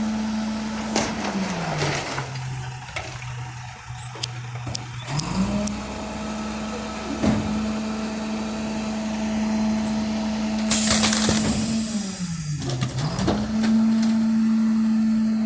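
Roll-off truck's diesel engine running at a held-up, steady speed, dropping to idle twice (about a second and a half in, and again near the end) and climbing back each time. A loud burst of air hiss comes about eleven seconds in.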